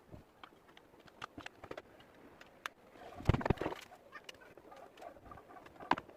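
Scattered light clicks and taps of metal parts and tools being handled, with a louder cluster of knocks a little after three seconds in.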